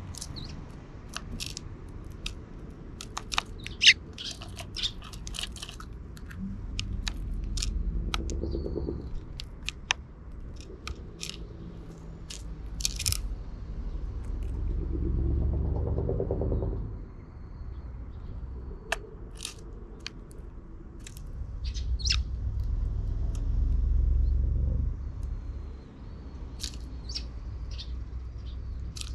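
Sparrows giving brief chirps among many short, sharp clicks. A low rumble swells and fades three times, like vehicles passing.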